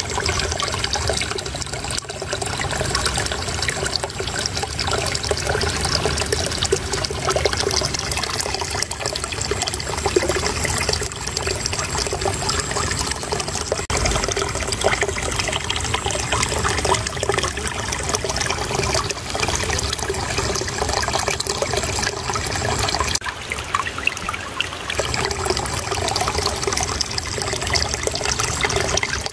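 Shallow water flowing and trickling steadily over stones in a small stream or irrigation channel, a continuous babbling splash.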